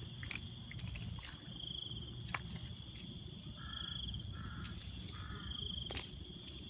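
Night rice-field sounds: an insect trilling high in rapid pulses, starting a couple of seconds in, pausing, then coming back near the end. Three short, harsh animal calls come in the middle, with a couple of sharp clicks over a low rumble of handling noise.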